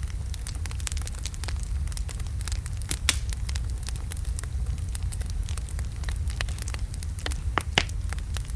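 Wood fire of large logs burning in a fireplace: a steady low rumble of flame with irregular sharp crackles and pops, a louder pop about three seconds in and another near the end.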